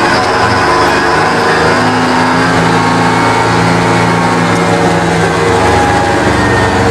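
Diesel engine of a 1969 GMC 9500 truck running loudly on a road test, its note holding steady in the middle and changing pitch near the start and again near the end.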